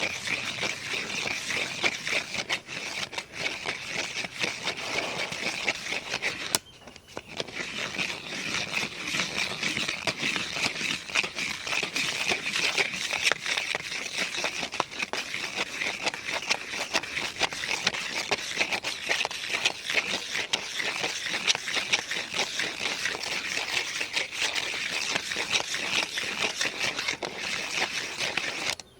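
Rapid, continuous scratching on the body of a large camera, a dense crackly scraping with a brief pause about seven seconds in, stopping just before the end.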